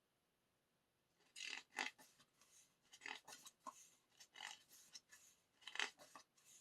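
Paper handling: after about a second of near silence, a run of short irregular rustles and brushes of album paper being handled.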